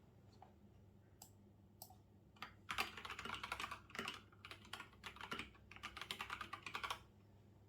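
Typing on a computer keyboard: a few lone keystrokes, then quick runs of keystrokes starting about two and a half seconds in and stopping about a second before the end.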